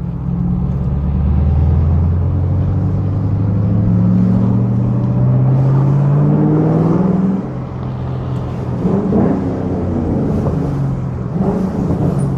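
Straight-piped Ford Mustang exhaust under hard acceleration, its note climbing steadily in pitch for about seven seconds. The pitch and level then drop suddenly as the throttle comes off, and the engine runs on at lower revs with a few smaller rises and a falling note near the end.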